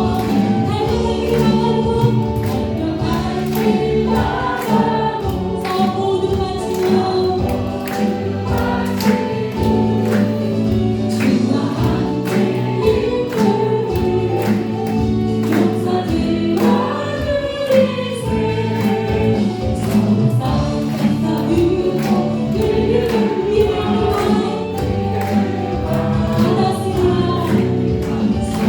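Congregational worship song: a choir and congregation singing together over a full band with a steady beat.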